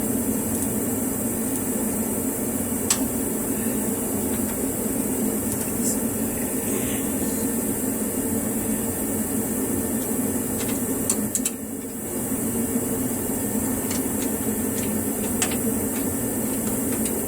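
Steady hum with a few scattered light clicks: a wrench being worked on the rear suspension arm bolts.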